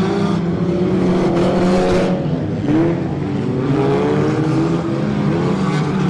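Several racing stock-car engines running hard at once, their pitch rising and falling as the drivers accelerate and lift off.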